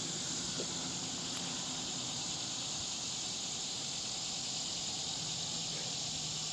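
Steady high drone of a summer insect chorus, continuous and even.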